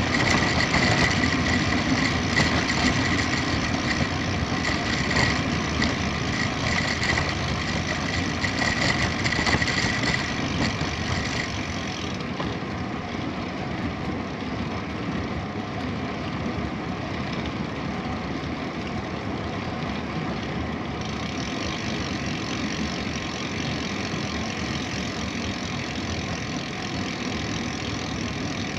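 Steady wind rush and rolling road noise on the microphone of a camera riding along on a bicycle, with a thin high tone over roughly the first ten seconds.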